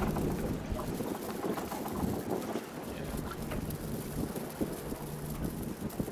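Wind buffeting the microphone on the water, an even rumble with a faint steady low hum beneath it.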